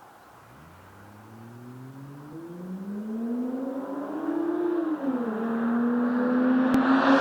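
Toyota Verossa JZX110's 1JZ-GTE turbocharged inline-six through a Cannonball double muffler, accelerating with the exhaust note rising in pitch, dropping at a gear change about five seconds in, then holding a steady note while growing louder.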